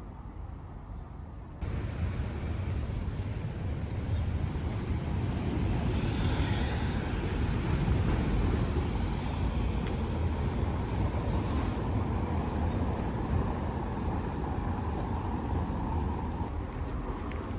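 Outdoor street ambience with a steady rumble of road traffic, jumping suddenly louder about a second and a half in.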